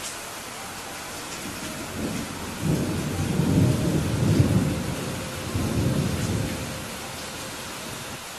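Steady rain falling, with a rumble of thunder that builds about two seconds in, is loudest in the middle and fades away over about five seconds.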